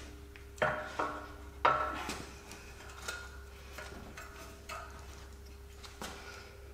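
Steel parts of a ball joint separator kit clinking as they are handled and fitted. Three sharp, ringing clanks come in the first two seconds, followed by a few lighter ticks.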